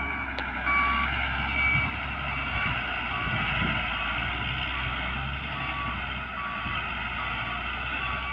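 Truck reversing alarm beeping in an even repeating pattern, just over one beep a second, over the steady low running of the truck's engine, as the truck backs up to unload.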